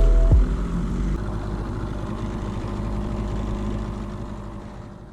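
Nissan Marine 9.8 outboard motor running steadily on an inflatable boat, a low rumble with water noise that gradually fades out. A few notes of music end about half a second in.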